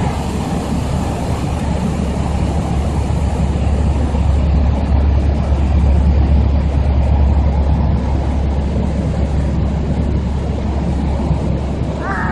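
Steady drone of a small piston-engine airplane heard from inside the cabin, engine and airflow together, swelling slightly midway. The engine has carburetor ice.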